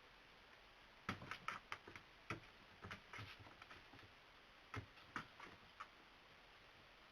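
A cat batting and pouncing on a cat toy: irregular light clicks and taps in a quick run starting about a second in, then a second short flurry near the five-second mark.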